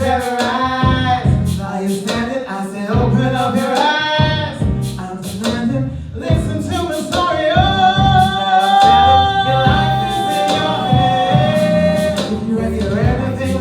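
Neo-soul song performed live: a female singer's wordless melodic runs, then a long held note about eight seconds in, over a bass and drum accompaniment.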